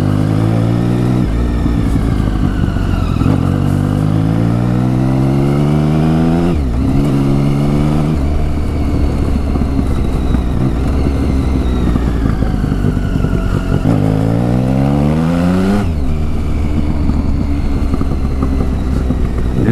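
Triumph Tiger 1050 Sport's three-cylinder engine, fitted with a new exhaust, pulling up through the revs; the pitch climbs and then drops sharply twice, about six and a half seconds in and near sixteen seconds in, as the rider shifts or rolls off.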